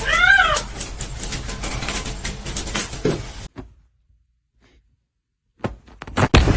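A cat gives one short meow that rises and falls, followed by a few seconds of scattered clicks and knocks.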